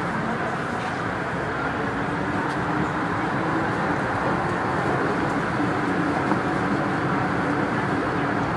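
MTR M-train electric multiple unit running at steady speed: a continuous rumble of wheels on rail with a low steady hum.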